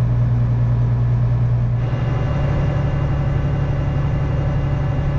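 Case IH 8940 tractor engine running steadily, heard from inside the cab as a strong low hum; about two seconds in its sound changes and becomes fuller and rougher.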